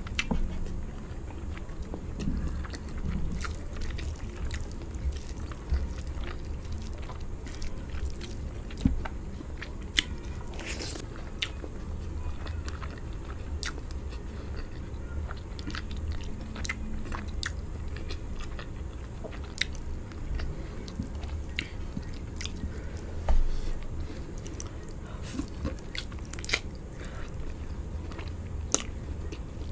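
Close-miked chewing and mouth sounds of a person eating rice, palava sauce and chicken by hand: many short clicks and smacks at irregular intervals over a steady low hum. A single low bump comes about three-quarters of the way in.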